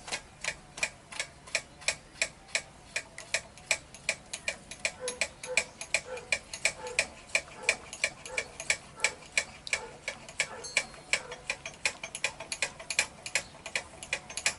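Ratchet wrench clicking steadily, about three to four sharp clicks a second, as a bolt is turned by hand.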